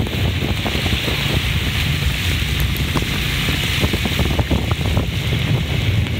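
Rain falling with a steady hiss, with wind buffeting the microphone in a low rumble.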